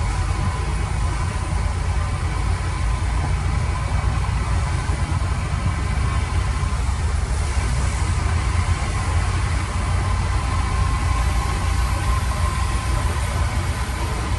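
Heavy diesel engine of construction machinery running steadily, its sound deepest and strongest in the low end.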